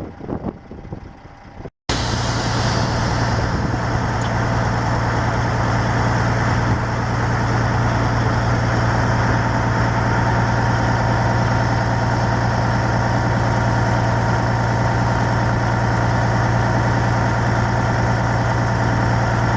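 Dump truck engine running steadily with a constant low hum, starting after a brief dropout about two seconds in.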